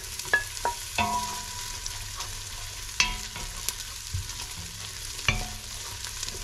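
Onion, garlic and ginger sizzling in hot olive oil in a stainless steel pot while being stirred with a wooden spoon. The spoon knocks against the pot several times in the first second, then again about three and five seconds in, some knocks leaving a short metallic ring.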